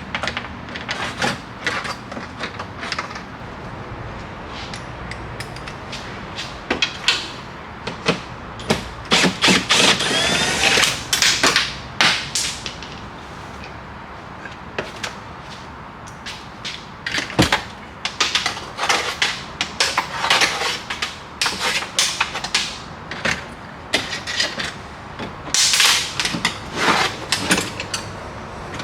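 Hand tools and metal and plastic door parts clicking, knocking and rattling as they are worked inside a Ford F-350 truck door, with a few longer scraping or rasping stretches.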